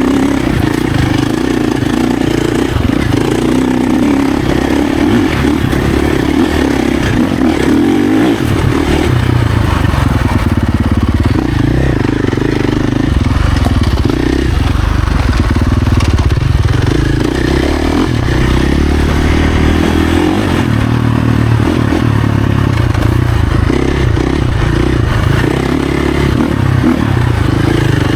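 Husqvarna FC450's single-cylinder four-stroke engine running under a rider on a dirt trail, its revs rising and falling again and again as the throttle is worked.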